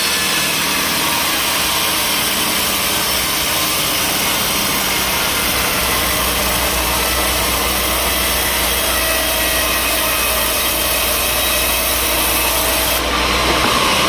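Sawmill saw cutting steadily through a log, with a continuous rasping noise over a running motor; the sound changes about a second before the end.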